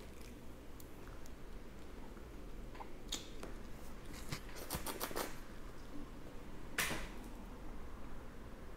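Scattered small clicks and crackles of seafood shells being handled and eaten, with a quick run of them past the middle and one louder crack about seven seconds in, over a low steady hum.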